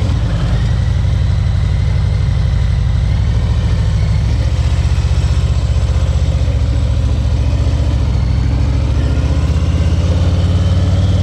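Harley-Davidson Ultra Limited's V-twin engine running steadily, a low, rapidly pulsing rumble.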